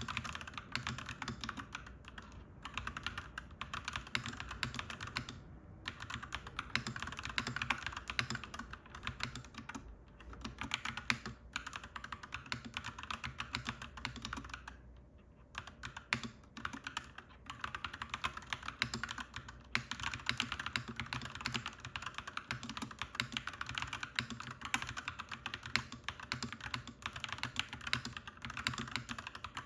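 Fast, continuous typing on a clacky mechanical keyboard, with brief pauses about five seconds and fifteen seconds in.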